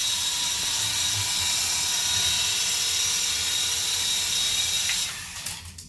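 Small electric motors and spinning rotor blades of a Grogu motion-sensing toy helicopter in flight: a steady whirring buzz with a high whine. It dies away about five seconds in, followed by a few light clicks.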